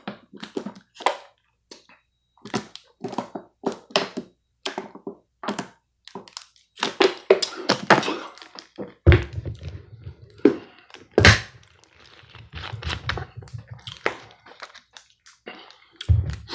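Close-up eating of pancakes: chewing and wet mouth clicks with taps and knocks of cutlery, and a run of heavier low thuds around the middle.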